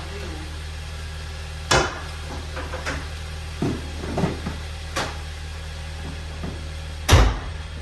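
A freshly jump-started car engine idling steadily with a low hum, while two heavy slams sound, one about two seconds in and a louder one near the end, with lighter knocks and a click between them.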